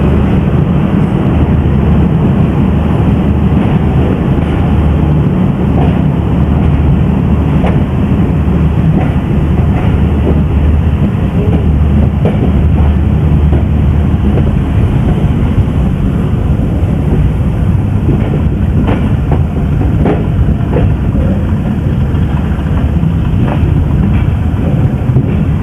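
Pakistan Express passenger train running along the track, a loud steady rumble with scattered clicks of wheels passing over rail joints.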